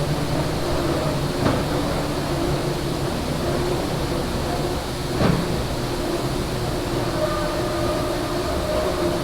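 Steady machinery noise with a low hum and a couple of faint knocks.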